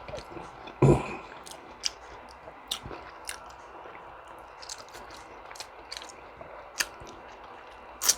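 Close-miked chewing with wet mouth clicks and smacks, scattered irregularly. About a second in there is a louder, deeper thump.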